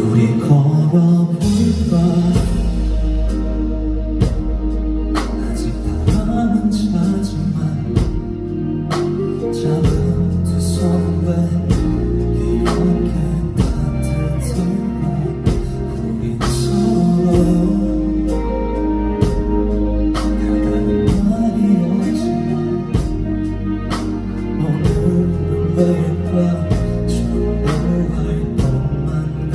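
Live band music with a steady drum beat and heavy bass under a singing voice.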